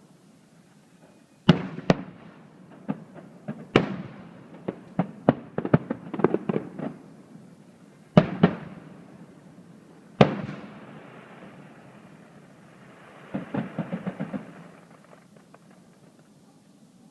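Aerial fireworks bursting: four loud booms, each trailing off, with bursts of rapid crackling between them and again about two-thirds of the way through. It dies down near the end.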